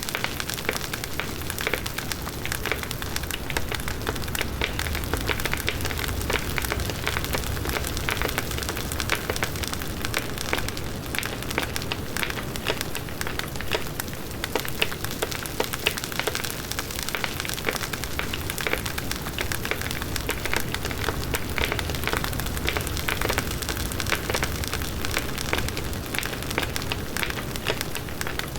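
Large bonfire burning: dense, steady crackling and popping of burning wood over a low rumble of the flames.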